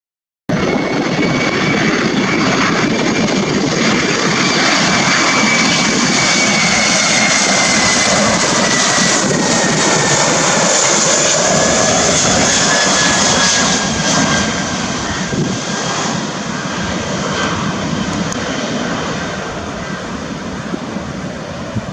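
Jet airliner passing low overhead on approach to land. The engine noise carries a high whine that slides steadily down in pitch as the aircraft goes by, then fades over the last several seconds. The sound cuts in abruptly half a second in.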